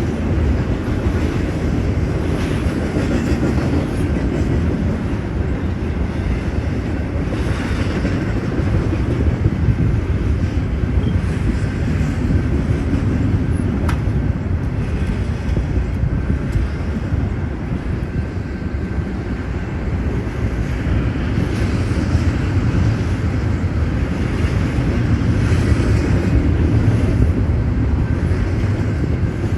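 Intermodal container train rolling past: a continuous heavy rumble of steel wheels on rail that swells and eases every few seconds as the railcars go by.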